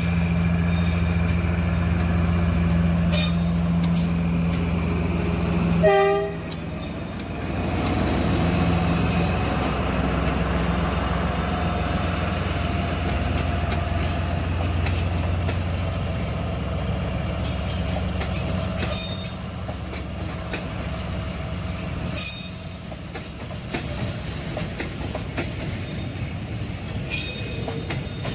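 D19E diesel-electric locomotive passing with its engine droning, a brief horn toot about six seconds in, then its train of carriages clattering over rail joints as the engine sound fades.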